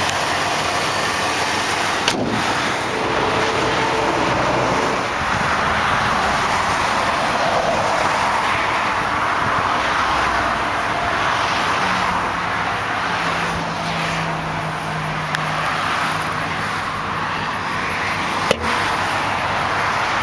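A 1996 Ford Bronco's 5.0-litre fuel-injected V8 idling steadily, mixed with road noise from passing highway traffic. A sharp knock sounds about two seconds in and another near the end.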